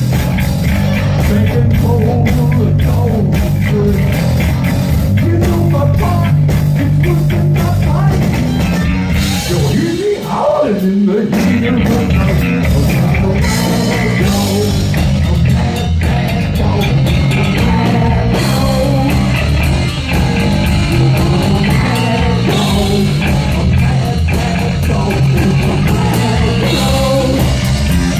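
Heavy metal band playing live: distorted electric guitars, bass and drum kit. About ten seconds in, the bass and drums drop out for a moment under a guitar line that slides up and down in pitch, then the full band comes back in.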